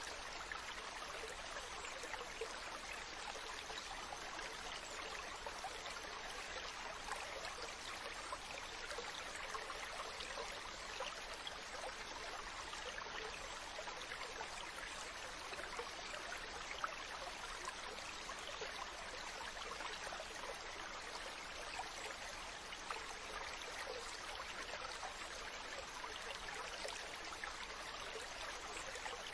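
Ocean water washing steadily, an even hiss without distinct wave surges.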